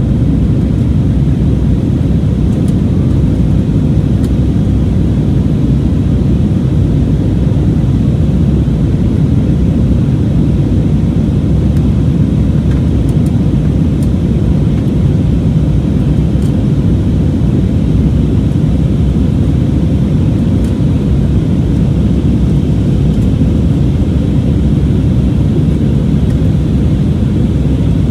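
Steady, loud low rumble inside the cabin of an Airbus A320neo, its CFM LEAP-1A engines running at high thrust with airflow noise.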